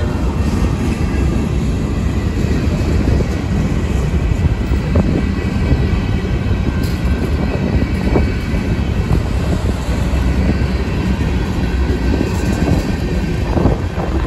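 Freight train cars rolling past: a steady rumble of wheels on rail with a few separate clacks.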